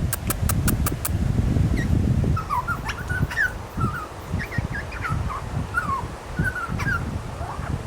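Many short, high squeaky animal calls, each a quick rising or falling chirp, from about two seconds in, over a low rumble of wind on the microphone. A quick run of about six clicks comes at the start.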